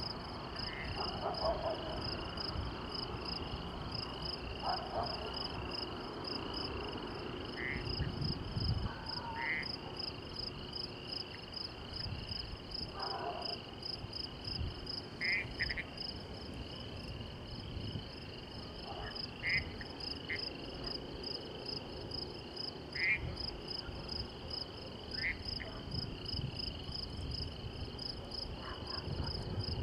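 Night chorus of crickets or katydids: a steady, rapidly pulsing high trill. Frogs give short calls here and there over it, and a few low rumbles come through.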